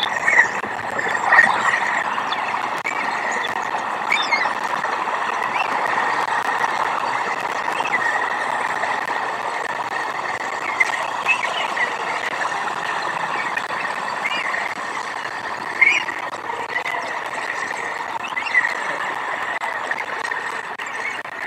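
Outdoor nest-camera ambience: a steady hiss with short, high bird chirps every few seconds and the odd click.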